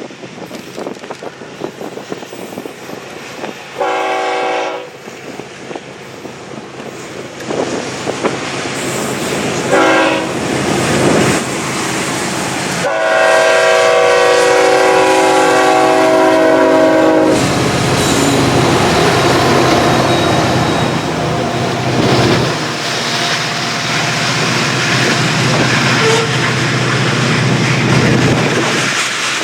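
Freight train diesel locomotive horn: a blast about four seconds in, a brief one near ten seconds, then a long blast of about four seconds. After that the locomotives' engines and the train's wheels pass, with a steady rumble and clickety-clack on the rails.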